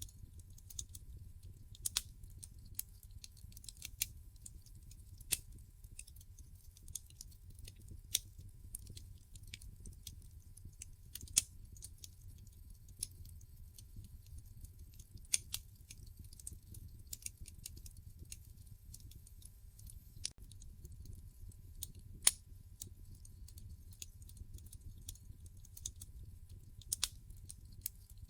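Wood fire burning in a fireplace, crackling with irregular sharp pops of the burning logs over a low steady rumble, one pop louder than the rest about three-quarters of the way through.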